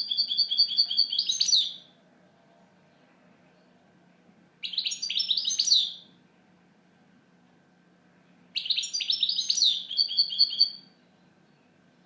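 European goldfinch singing: three quick bursts of high, twittering song, each under about two seconds, separated by short pauses.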